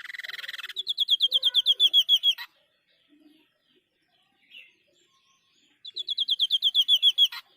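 White-breasted babbler (Stachyris grammiceps) singing its 'tembakan' shot song twice. The first phrase opens with a short buzzy rattle. Each phrase is a fast, even string of high notes, about eight a second, ending in a sharp sweep.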